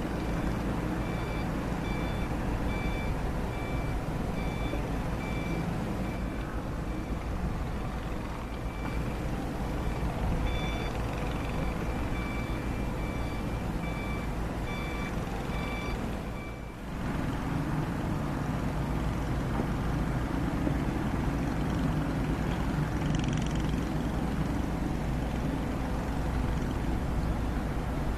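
Komatsu hydraulic excavator's diesel engine running, with its warning alarm beeping evenly about twice a second. The beeping pauses a few seconds, then resumes and stops about sixteen seconds in, leaving the engine running alone.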